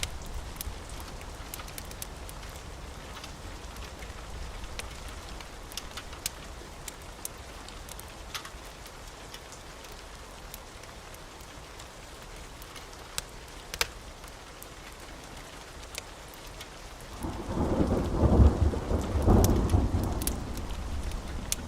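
Wood fire crackling, a steady hiss with scattered sharp pops. About 17 seconds in, a loud low rumble swells for a few seconds and then dies away.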